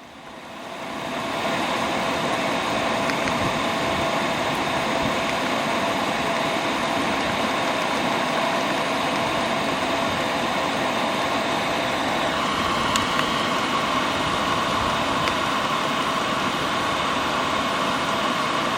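Chinese diesel air heater running with a steady whir and hum from its blower and burner. The noise rises over the first second or so, then holds level, while the heater is being switched off.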